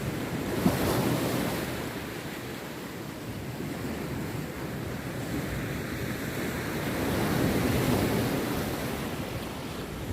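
Rough sea surf breaking on a beach: a continuous wash of waves that swells as one wave crashes about a second in and another around seven to eight seconds in.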